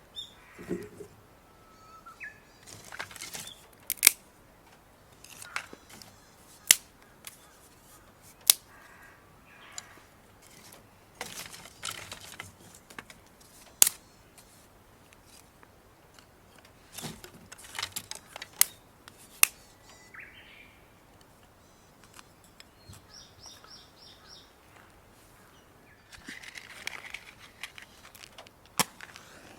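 Irregular sharp clicks and pops, about a dozen spread unevenly, with a few spells of soft rustling handling noise. A short run of quick high bird chirps comes about 24 seconds in.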